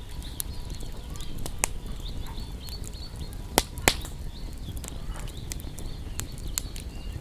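Wood fire burning with a low rumble and scattered sharp crackles and pops, the two loudest pops about three and a half and four seconds in, while small birds chirp in short, repeated high notes.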